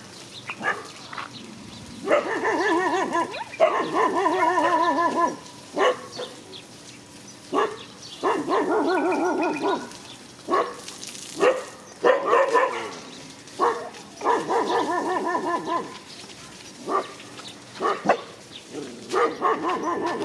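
Dogs barking in a confrontation: short sharp barks mixed with long, quavering whining cries of a second or more, repeated about half a dozen times.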